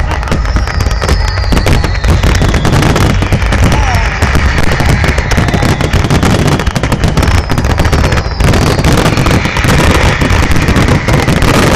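Aerial firework shells bursting in a dense, continuous barrage of bangs and crackling over a deep rumble, with a few whistles falling in pitch above it.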